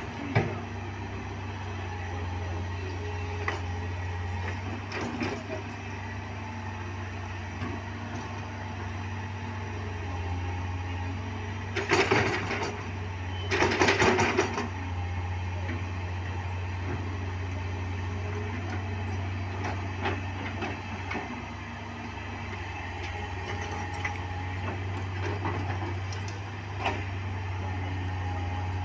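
A large engine runs steadily with a low hum. About twelve and fourteen seconds in there are two short, loud, noisy bursts.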